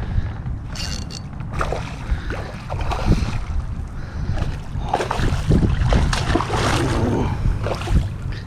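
Wind rumbling on the microphone over a kayak on open water, with scattered splashes and knocks of water and gear against the hull, busiest about five to seven seconds in.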